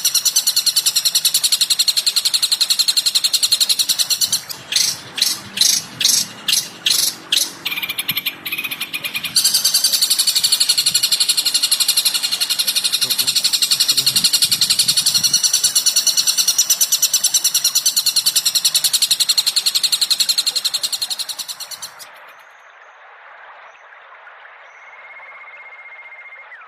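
Recorded bird call: a fast, continuous high-pitched chatter of rapid repeated notes, broken about four seconds in by a run of about eight separate calls, then resuming before it cuts off about 22 seconds in, leaving only faint hiss.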